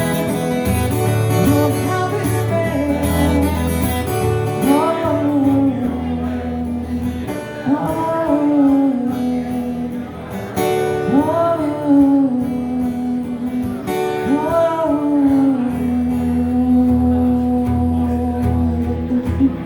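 Live music: a male voice singing drawn-out phrases over guitar accompaniment.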